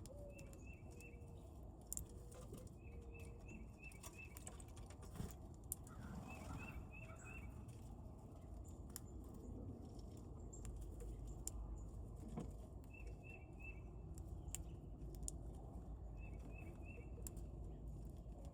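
Small birds chirping in quick runs of three to five high notes, repeated every few seconds, with scattered sharp clicks and a steady low rumble underneath.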